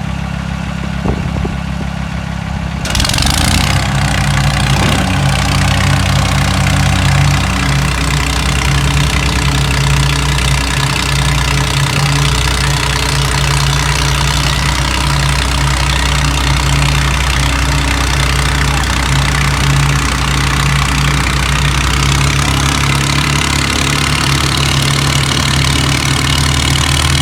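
Diesel farm tractor engines running steadily. They grow louder and fuller about three seconds in, then hold a constant pitch.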